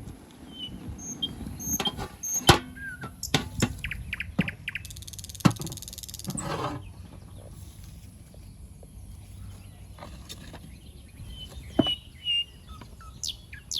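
Small birds chirping with short, high calls, mixed with scattered sharp knocks and clatter in the first half and a brief hiss about five seconds in.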